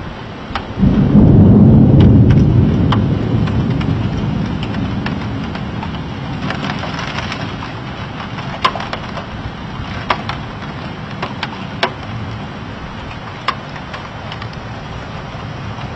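A thunderclap about a second in, its rumble loudest for a couple of seconds and then slowly dying away, with scattered sharp ticks throughout.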